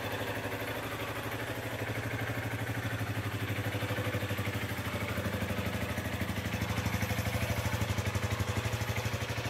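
Yamaha XG250 Tricker's air-cooled single-cylinder four-stroke engine idling with an even beat, getting a little louder about two thirds of the way through, as the carburettor is checked for proper running.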